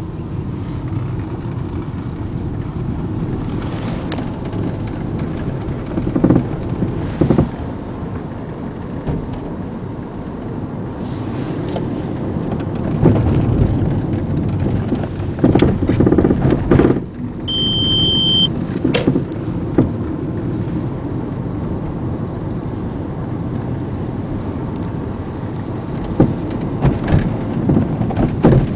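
A 2000 Volkswagen Jetta 2.0 driving with steady road rumble, broken by scattered clunks and rattles from the driver's-side rear as it goes over bumps, a fault whose cause the owner has not found.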